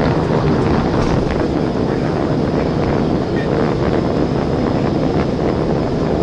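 Steady, loud road and wind noise of a police patrol car driving at high speed.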